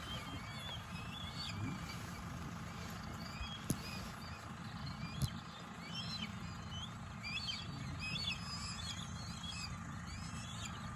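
Many birds calling outdoors at once: short, high, wavering chirps and whistles overlapping one another over a steady low rumble. Two sharp clicks come about four and five seconds in.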